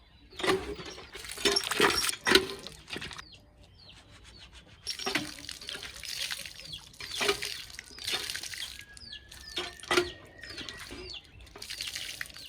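Water splashing and pouring in several bursts with short pauses between.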